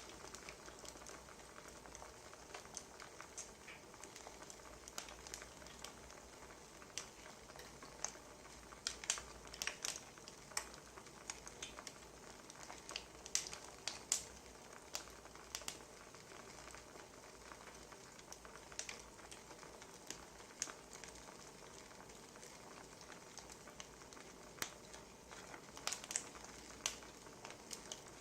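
Wood fire crackling faintly: irregular sharp pops and snaps over a soft steady hiss, coming thickest in the middle of the stretch and again near the end.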